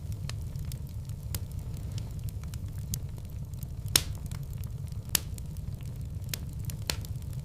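Wood fire burning in a fireplace, crackling with irregular sharp pops over a steady low rumble. Two louder pops come about four and five seconds in.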